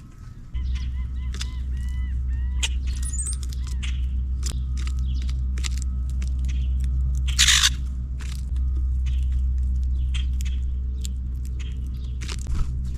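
Small birds chirping in a quick repeated series in the first few seconds, with scattered light clicks and a short rushing burst about seven and a half seconds in, all over a steady low rumble that is the loudest sound throughout.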